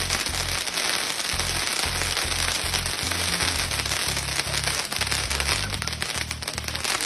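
Dense, continuous crackling of fireworks going off around a festa junina bonfire lit by remote control, with many small pops, over music with a pulsing bass line.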